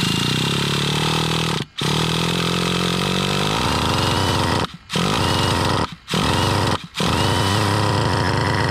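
Electric starter box cranking a Traxxas Revo 3.3 nitro engine in five loud bursts, each cut off sharply as the starter is released. The engine does not catch and run on its own.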